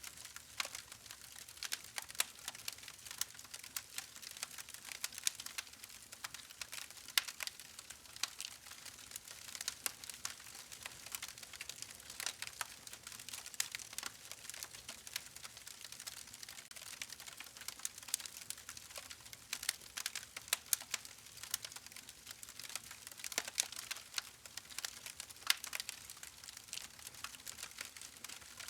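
Wood fire crackling: a continuous soft hiss with irregular sharp pops and snaps from the burning logs.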